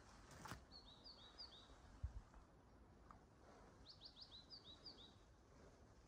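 Small birds calling in a quiet forest: a quick run of short, high chirps about a second in and another about four seconds in. A single low thump comes about two seconds in.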